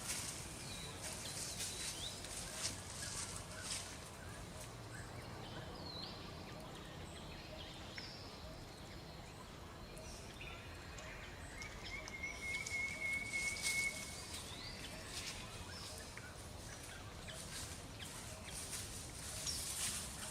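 Outdoor nature ambience: small birds chirping here and there, with one high steady trill of about two seconds near the middle, over a low hiss and scattered brief rustles.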